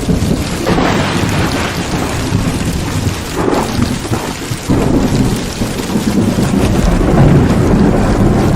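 Heavy rain pouring steadily, with low thunder rumbling under it that swells and fades, growing louder near the end.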